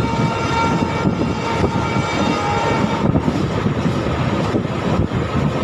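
Passenger train running at speed, heard from on board: a steady rumble of wheels on the track mixed with wind rush. Faint thin whining tones sound over it during the first three seconds.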